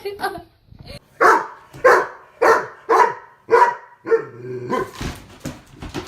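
A dog barking five times in a steady series, about a bark every half second or so, then quieter sounds after the last bark.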